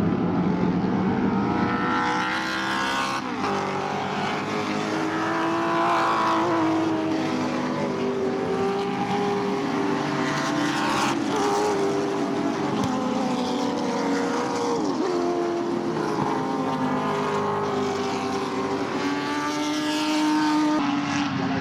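A pack of Group NC historic 1970s muscle cars racing past at speed, several engines overlapping at high revs. Their pitch rises and falls, with sharp drops a couple of times.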